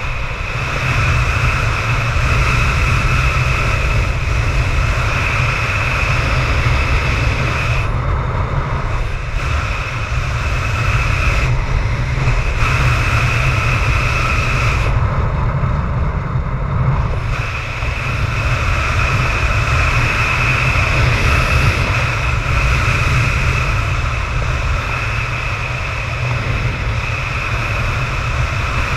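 Strong wind of about 25 m/s buffeting the microphone with a heavy, steady rumble, plus a steady high whistle that drops out briefly a few times.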